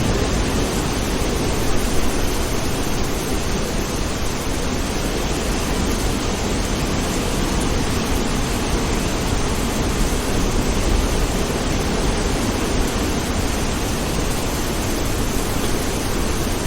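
Steady rain falling, a dense, even hiss with no separate thunderclaps.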